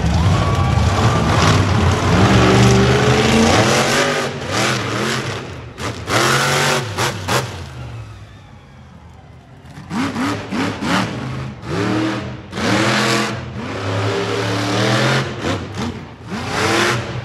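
Monster truck engine revving in repeated bursts, its pitch climbing and dropping with each blip. There is a quieter lull about eight seconds in.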